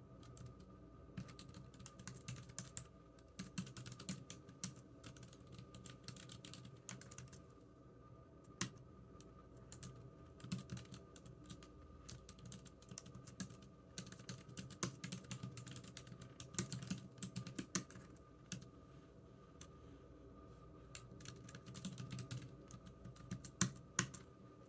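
Typing on a computer keyboard: quick runs of key clicks in bursts, with brief pauses between them, over a faint steady hum.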